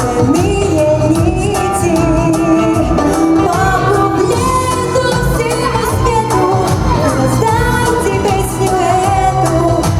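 A girl singing a pop song live over a backing track with a steady beat.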